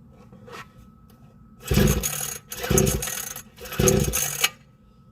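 Three pulls on the recoil starter cord of a small two-stroke weed-eater-type engine, each a rasping stroke under a second long as the engine turns over without catching, after it has just died.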